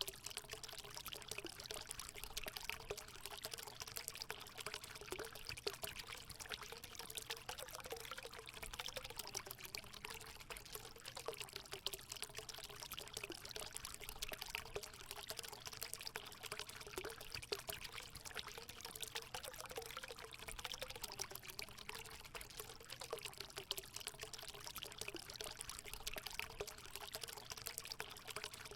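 Water running and pouring steadily into a hot spring pool, a continuous splashing trickle with a gurgling note.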